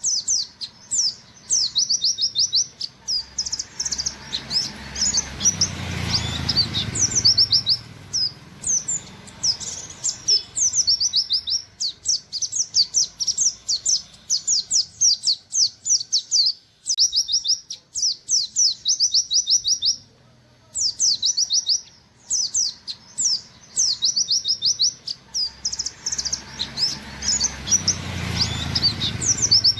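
Pleci (white-eye) singing its rapid 'nembak' song: long strings of quick, high, downward-slurred 'wit wit' notes in bursts of a few seconds, separated by short pauses. A low rushing noise swells up twice, about five seconds in and again near the end.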